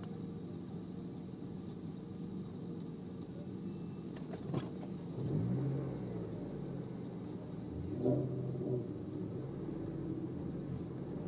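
Honda Civic engine idling, heard inside the cabin, with two short revs, one about five seconds in and another around eight seconds. A sharp click comes just before the first rev.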